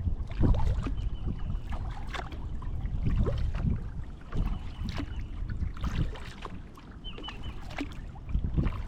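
Kayak being paddled: paddle strokes with water splashing and dripping, over a constant low wind rumble on the microphone. A short series of high chirps recurs a few times.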